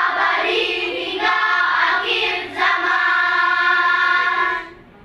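Children's choir singing in unison, ending on a long held note that fades away near the end.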